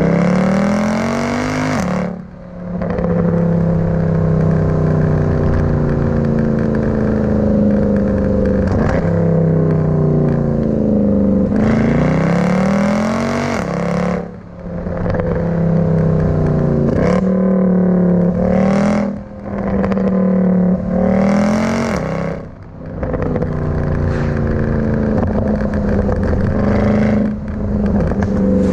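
Mercedes C63 AMG's 6.2-litre naturally aspirated V8 running on a series of long pulls. Its pitch climbs steadily over several seconds, then falls away. There are four brief dips where the throttle is lifted, each with a short crackle.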